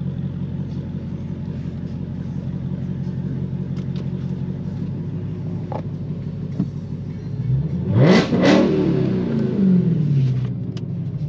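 Dodge Hellcat's supercharged V8 idling, then revved twice in quick succession about eight seconds in, its pitch shooting up and sinking back to idle over the next two seconds.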